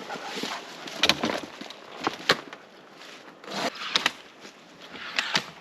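Firewood being handled and broken: several sharp wooden cracks and knocks, some in quick pairs, with rustling between them.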